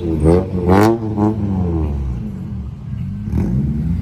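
A car engine revved in several quick throttle blips over the first second or so, then settling to a steady idle, with one more short blip a little over three seconds in.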